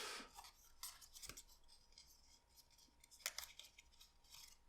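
Near silence broken by a few faint, short clicks and rustles of stiff paper being handled and folded, about a second in and again a little after three seconds.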